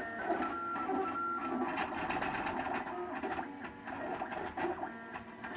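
MakerBot Thing-O-Matic 3D printer's stepper motors whining during a print, in short steady tones that jump from pitch to pitch as the print head changes moves, with light ticking.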